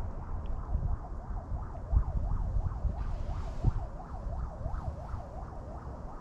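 Wind buffeting the microphone in a steady low rumble, over a tone that warbles up and down about three times a second.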